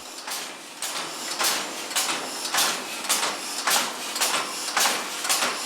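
Compressed-air engine of a homemade narrow-gauge locomotive exhausting in short, even hissing puffs, about two a second, as it drives the loco slowly along the rails.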